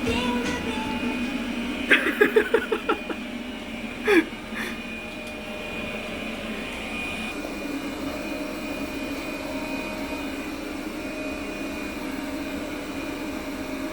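Robot vacuum cleaner running with a steady hum and a high whine. About two seconds in there is a quick run of about six short pitched sounds, then a short falling sound a couple of seconds later.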